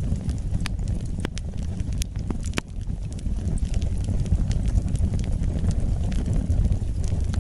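Wood fire burning in a fireplace: a steady low rumble of flames with irregular sharp crackles and pops from the burning wood, the clearest pops in the first few seconds.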